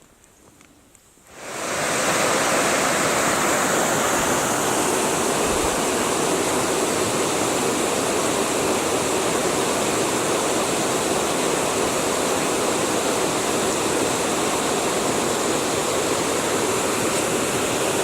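Rushing water of river rapids or a small falls: a steady, loud roar of white water that fades in about a second and a half in and then holds even.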